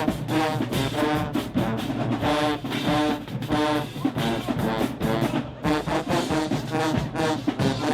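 High school marching band's brass section playing a loud passage of short, repeated punched chords.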